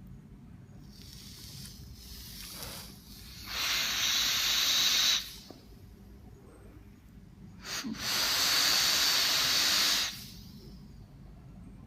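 Vaping on a Hotcig Train Vape rebuildable dripping tank atomizer: two long puffs of rushing air and vapour, each lasting about two seconds, after a fainter one near the start.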